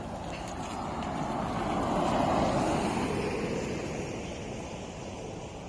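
A road vehicle passing by, growing louder to a peak about two seconds in and then fading away.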